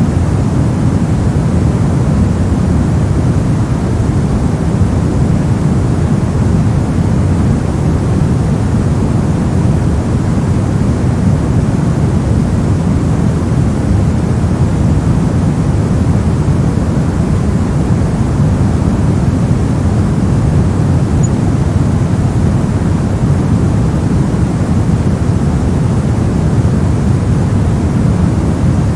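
Steady synthetic white noise for sleep, even and unchanging. Most of its weight sits in the low end, so it sounds like a deep, smooth rush rather than a bright hiss.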